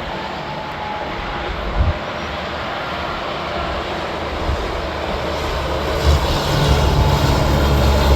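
Interstate highway traffic: a steady rush of tyre and engine noise, with a short low thump about two seconds in. From about six seconds in a heavy diesel truck's low engine drone grows louder as it passes close.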